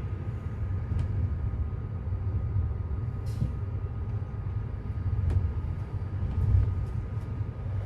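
Passenger train running, a steady low rumble with a faint steady whine above it and a few sharp clicks.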